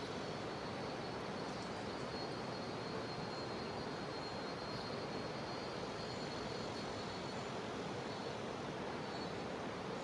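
Jungle river flowing: a steady rush of water, with a faint high drone of cicadas above it.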